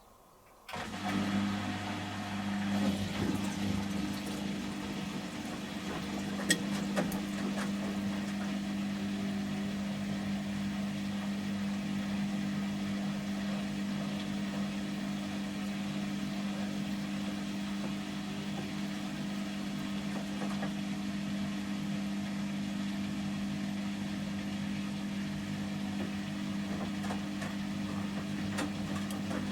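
A Samsung washing machine's drain pump switches on abruptly about a second in and runs with a steady hum, water rushing through it as the drum is emptied in the final-spin stage. A few sharp clicks are heard in the first seconds.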